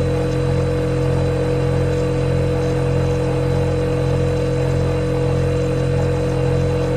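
Refrigerator compressor running with a steady low hum and a higher steady whine over an even mechanical whir.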